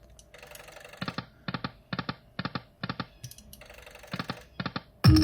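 Lightning Cash slot machine sounds: a steady run of short ticking clicks, about two a second, with a single loud thump about five seconds in.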